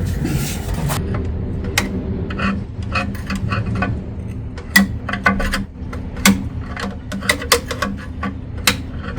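Irregular metal clicks and clanks of a pry bar levering against the flex plate to turn the engine's crankshaft round by hand, about a dozen sharp strikes over a steady low hum.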